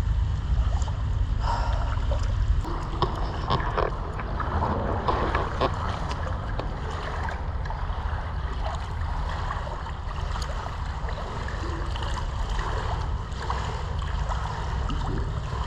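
Steady low rumble carried through a concrete drain tunnel, the sound of machinery or traffic above. Irregular splashes and knocks from water in the drain sit over it, more frequent in the first few seconds.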